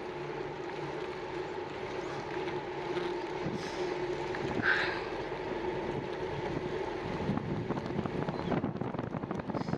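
Riding noise of a bicycle in motion: a steady hum from the tyres and drivetrain under wind on the microphone, turning choppier and gustier for the last couple of seconds.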